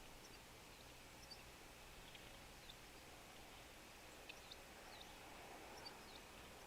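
Faint, scattered high chips and short call notes of small feeder birds, a dozen or so, some sweeping quickly downward, over a steady background hiss.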